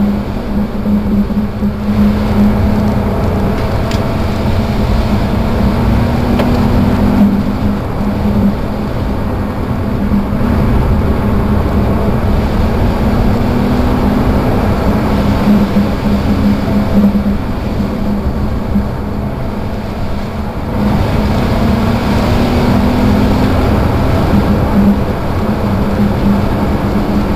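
Volkswagen R32's 3.2-litre VR6 engine pulling hard at rally pace, its note climbing several times and dropping back between, over heavy tyre and road rumble, heard from inside the car at the rear.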